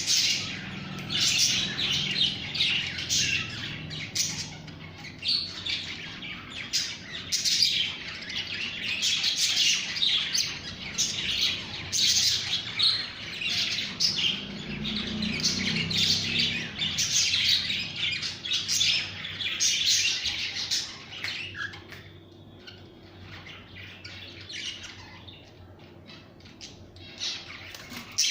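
Pet birds chirping and squawking in a busy, overlapping chatter of rapid high calls, which thins out and grows quieter about three-quarters of the way through.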